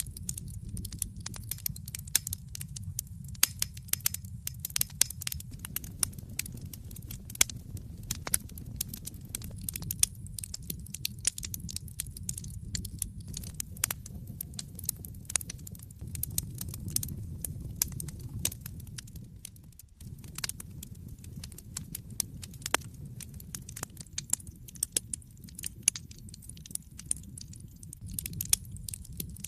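Wood fire burning in an open fireplace: frequent irregular crackles and sharp pops over a steady low rumble of the flames.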